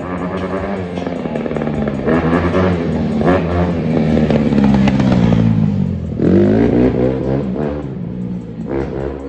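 Dirt bike engine revving through the gears, its pitch climbing, dropping sharply about six seconds in, then climbing again.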